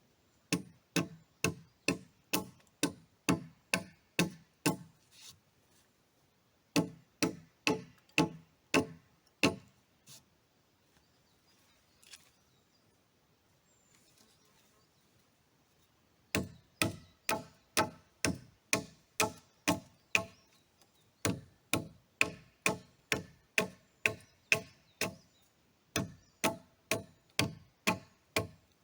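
Hammer blows at about two a second, in runs of several strikes with short pauses between runs, each blow ringing briefly: a nail being driven into timber.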